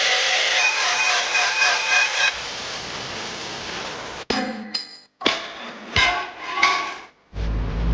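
Power tool with an abrasive disc grinding the paint off a steel gas cylinder: a steady grinding that goes quieter after about two seconds, then several short bursts of grinding with abrupt breaks between them.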